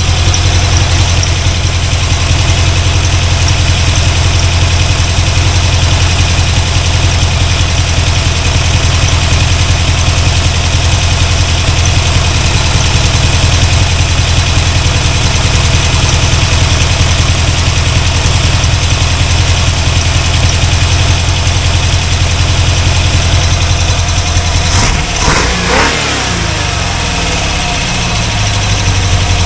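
C4 Corvette's 350 small-block V8 idling steadily after a rebuild, running rich with no rod knock. About 25 s in, its pitch swings and the level dips for a couple of seconds before settling back to a steady idle.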